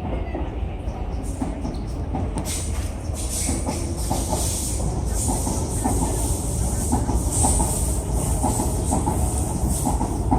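MTR East Rail line R-train electric multiple unit running along the station platform: a steady rumble with wheels clattering over the rail joints, a high hiss joining in a couple of seconds in and the sound slowly getting louder.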